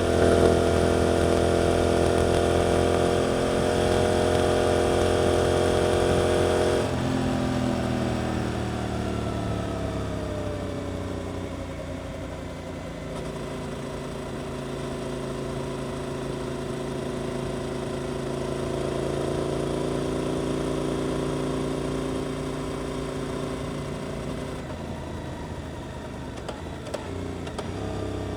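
Suzuki GSX-8S parallel-twin engine through an Arrow aftermarket exhaust, pulling hard at steady revs. About seven seconds in the throttle closes and the revs fall away over several seconds, then it settles into a steady, quieter cruising note.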